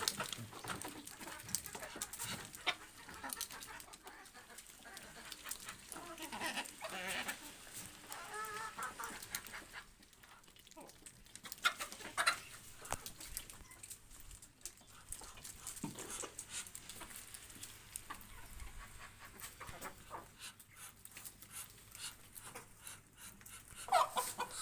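Hungry domestic fowl calling now and then while they feed on bread thrown on the floor, with short scattered calls and small clicks.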